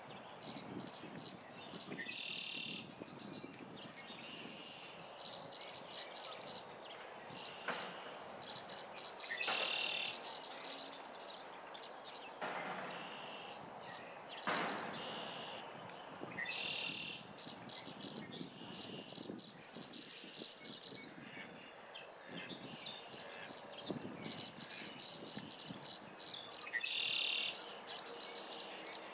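Small wild birds chirping in short bursts every few seconds over a steady outdoor hiss, with a few brief sharp sounds in between, which may be a mallard drake dabbling and splashing in the shallow water.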